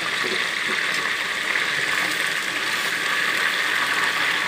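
Marinated chicken pieces sizzling steadily as they shallow-fry in hot oil in a pan.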